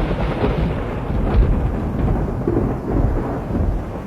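Thunder sound effect: a long, loud, rolling rumble with heavier swells, heard as the frogs' rain-summoning brings on the storm.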